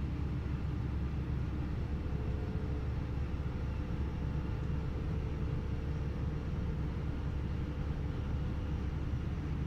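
Running noise inside a moving regional passenger train: a steady low rumble of the wheels on the rails, with a faint steady hum above it.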